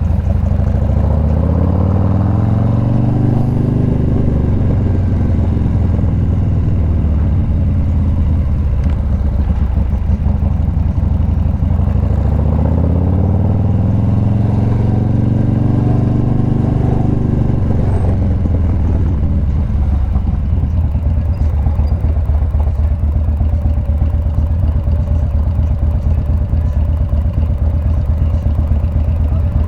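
Motorcycle engine running on the road, its pitch rising and falling twice as the bike speeds up and slows down.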